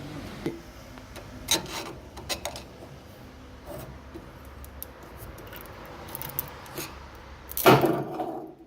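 Metal parts and tools being handled on a pellet stove: scraping and rubbing with scattered light clinks, and a louder clatter near the end.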